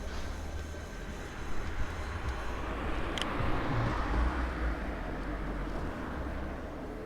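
Riding noise on a Maxtron Mule folding e-bike: low wind rumble on the microphone and rolling noise, with a rushing sound that swells and fades in the middle.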